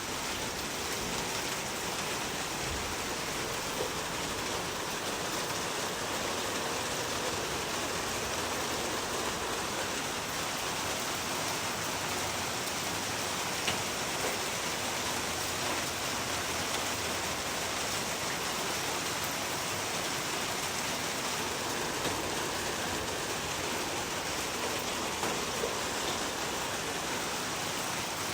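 Steady rain falling on a surface, with a few louder single drops now and then.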